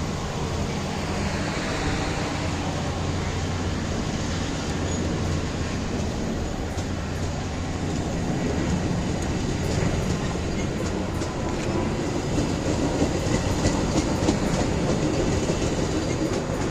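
Metra diesel commuter train running past: a steady low locomotive drone, with wheels clicking over rail joints from about six seconds in, the clicks growing quicker and a little louder later on.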